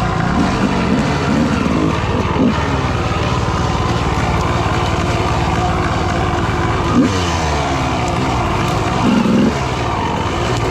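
Dirt bike engine running at low speed over rough ground, with short blips of throttle that rise and fall several times.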